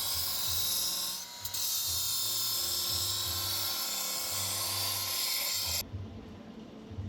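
A power tool, most likely air-driven, runs with a loud, hissing whir while working on the car's exhaust. It dips briefly about a second in and cuts off abruptly near the end. A steady low beat from background music runs underneath.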